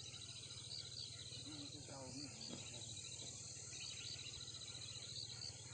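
Chorus of insects: a rapid, steady pulsing trill over a continuous high-pitched hiss, with a faint voice briefly about two seconds in.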